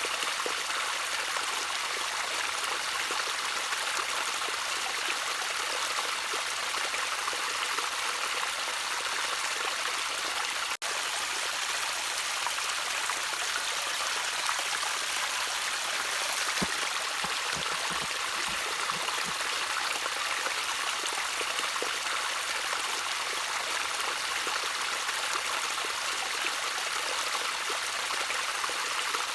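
Gently trickling stream water, a steady even rush of flowing water that drops out for an instant about eleven seconds in.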